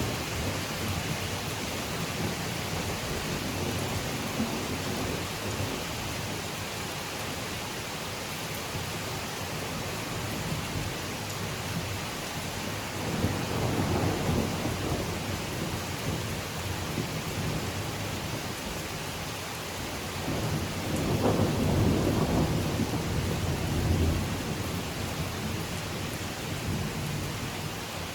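Steady rain falling on foliage, with two low rolls of thunder, one about halfway through and one about three-quarters of the way through.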